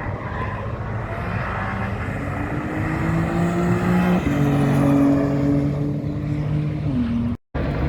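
MotoGP racing motorcycle engine accelerating hard, its pitch climbing, then dropping in a step as it shifts up a gear about four seconds in, and dropping again near the end. The sound cuts out briefly just before the end.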